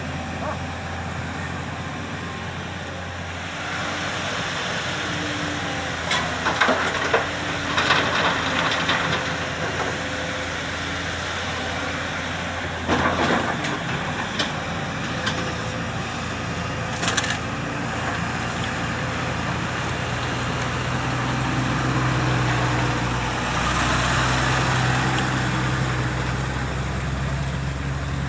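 Diesel engine of a JCB excavator running steadily, with bursts of clattering and crunching as the bucket works and loads earth into a dumper, several seconds in and again near the middle. The engine note rises and grows louder in the last third as it works under load.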